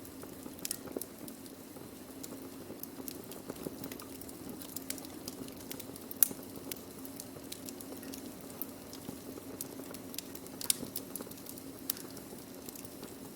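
Burning wood crackling in a fire: irregular sharp pops and snaps over a steady low background, with the loudest pop about six seconds in and another strong one near eleven seconds.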